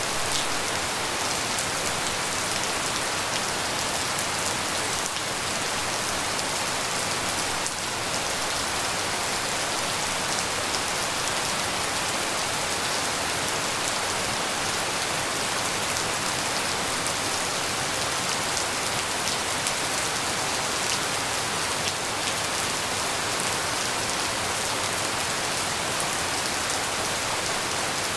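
Steady tropical rain falling, an even hiss with fine patter of drops striking surfaces.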